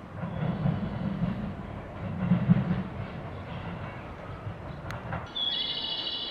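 Electric train running at a station platform: a low rumble of wheels on track with occasional clicks. It cuts off abruptly about five seconds in, and a high steady tone starts near the end.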